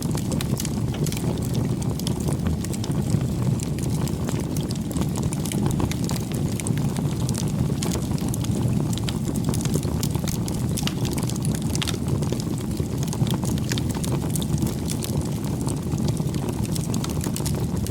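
Campfire burning: a steady low rush of flames with frequent small, irregular crackles and pops from the burning wood.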